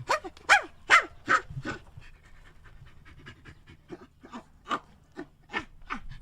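A monkey chattering: a run of short calls, each sliding down in pitch. The calls are loudest and spaced about 0.4 s apart in the first two seconds, then go on as a softer, quicker series.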